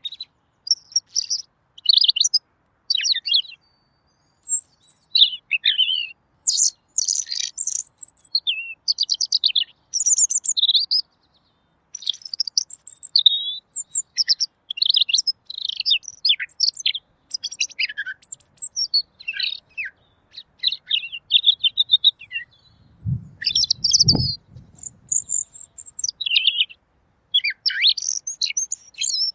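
Pekin robin singing in quick runs of clear, high chirping phrases with short pauses between them. A dull low bump sounds about four-fifths of the way through.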